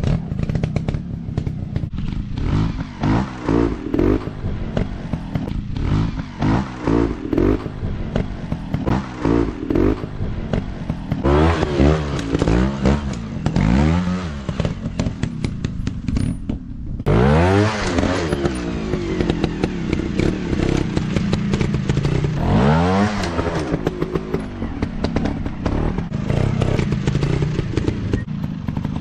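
Motocross dirt bike engines revving up and down over and over, with clatter and scraping. The sound drops away briefly a little past the middle, then a hard rev rises again.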